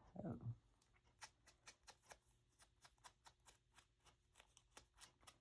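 Faint, light clicks in quick, fairly even succession, about four or five a second. The end of a spoken word trails off at the very start.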